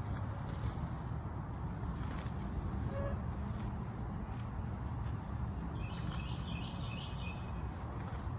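A steady, high-pitched insect chorus drones without a break over a low rumbling noise. About six seconds in, a short burst of higher chirping joins in for a second or so.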